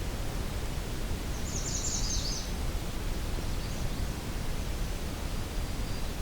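A songbird sings one short, high, rapid phrase about a second and a half in, followed by a few faint high notes. Under it runs a steady low rumble and hiss.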